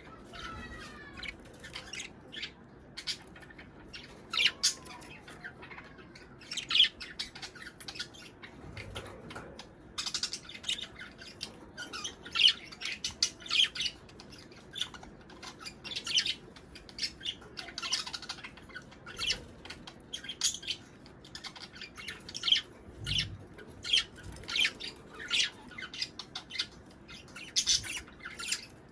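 Budgerigars chattering: a steady stream of short, irregular chirps, warbles and harsh squawks from several birds, the breeding chatter of budgies.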